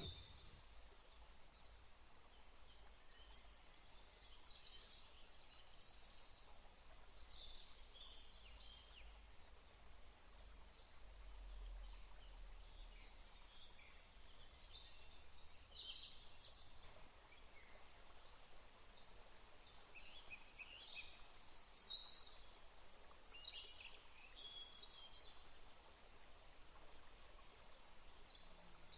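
Faint birdsong: many short, high chirps and whistles from several birds, coming and going, over a faint low rumble.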